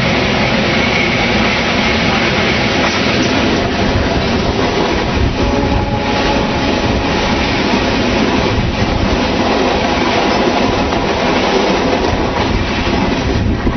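Passenger train coaches rolling past close by: a loud, steady rumble and rattle of wheels running on the rails.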